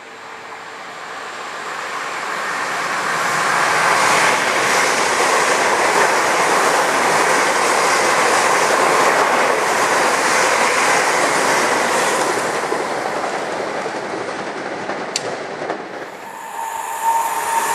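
London Midland Class 350 electric multiple unit passing through at speed: the rush of wheels on rail builds over the first few seconds, holds steady, then fades away. Near the end, a sharp click and then a different train sound with a steady tone.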